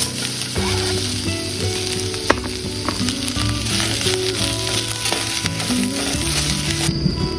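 Food frying in hot oil in a pan, a loud steady sizzle with a few sharp pops, cutting off suddenly near the end. Background music plays underneath.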